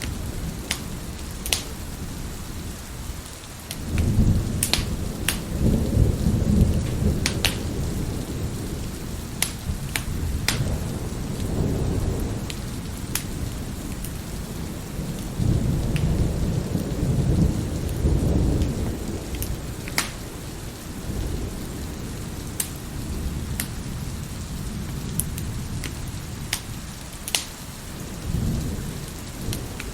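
Steady rain with thunder rolling twice, low and long, and sharp pops from a crackling wood fire scattered throughout.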